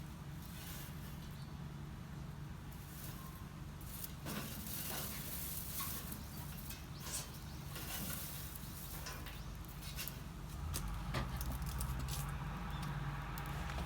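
Wood fire crackling and popping in a homemade barbecue grill and fire pit, irregular clicks and rustles over a low hum, with a low rumble building about ten seconds in.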